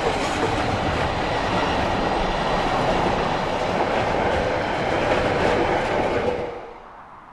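Container freight train's loaded flat wagons rolling past close by, wheels clicking over the rail joints. The noise drops away sharply about six seconds in as the last wagon clears.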